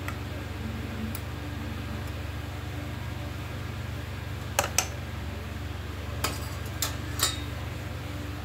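Utensils clinking against a bowl or pot about five times in the second half, while eggs are dipped in cornstarch and batter. Under it runs the steady low hum of an electric fan running at full speed.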